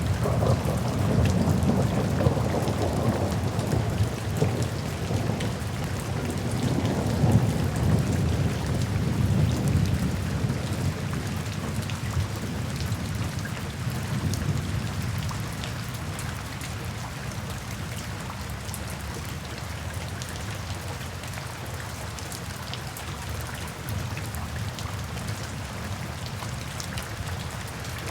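Steady rainfall with many small drop ticks, and a low roll of thunder that rumbles through the first half and fades away, leaving just the rain.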